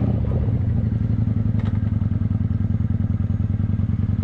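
Motorcycle engine running steadily at low revs with an even, rapid pulse.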